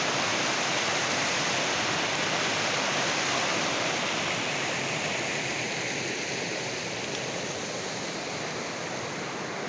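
Waterfall on a river pouring steadily, a dense rushing of falling water, easing slightly in loudness over the second half.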